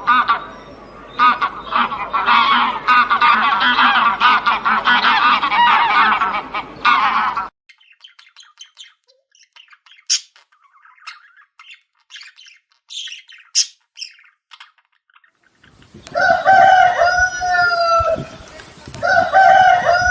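A flock of domestic fowl calling in a dense, overlapping chatter for about seven and a half seconds, then a few faint high chirps, then a goose honking twice near the end, each honk falling slightly in pitch.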